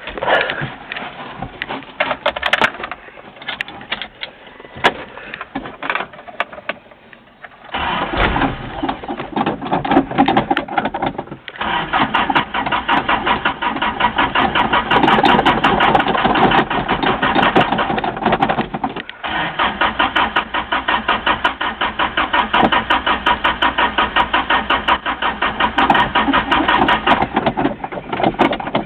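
Toyota truck engine turning over with a steady, evenly pulsing chug, in long spells broken briefly about 11 and 19 seconds in. For the first eight seconds there are only scattered clicks and knocks before it.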